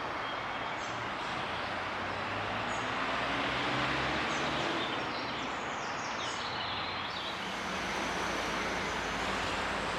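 Steady rumble of distant city traffic, with a low engine hum that rises and falls, and birds chirping in short high calls, most of them in the middle.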